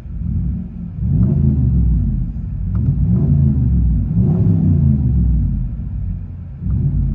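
A 2020 Ram 1500's 5.7-litre Hemi V8, with a Flowmaster Super 10 muffler and resonator deletes, being revved several times from idle, heard from inside the cab. Each rev rises and falls with a deep, muffled exhaust note.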